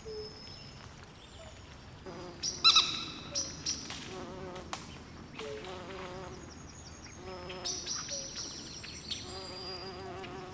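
Swamp night chorus of calling frogs and insects: high chirps and wavering, buzzing trills overlap, with one louder call standing out about two and a half seconds in.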